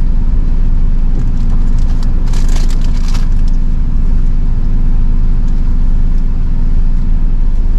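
Jeep Wrangler JL engine running steadily under load in four-wheel-drive low with the axles locked, crawling up a rocky climb. About two to three seconds in there is a second-long burst of crunching and crackling.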